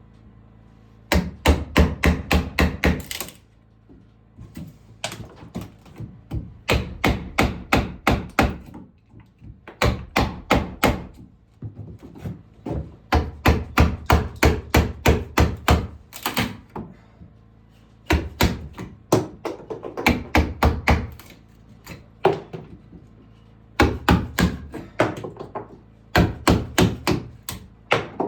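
A hammer striking wood in quick runs of about five or six blows a second, each run lasting one to three seconds, with short pauses between.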